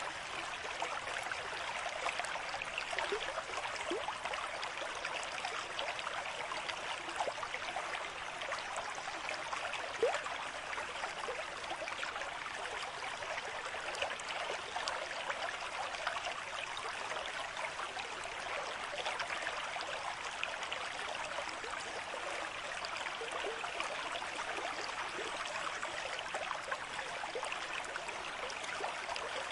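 Small stream running over stones: a steady babble of water, full of tiny splashes and gurgles.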